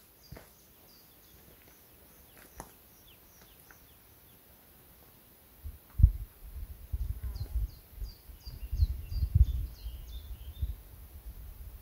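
A small bird calling outdoors: runs of short, high chirps repeated a few times a second, heard early on and again in the second half. From about halfway there are louder low rumbling thuds.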